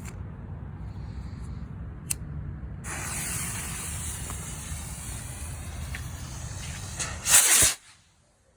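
Firework rocket's fuse hissing steadily for about four seconds, then a loud short blast as it goes off, and the sound cuts off abruptly. Wind rumbles on the microphone before the fuse catches.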